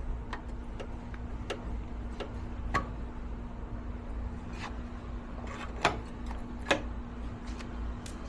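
Irregular light clicks and taps, a few sharper ones, over a low steady hum.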